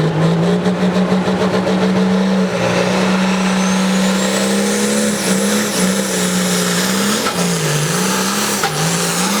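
A pulling vehicle's engine running hard under load down the track, its note holding steady, with a high whine rising from about two and a half seconds in. After about seven seconds the engine note dips and wavers up and down.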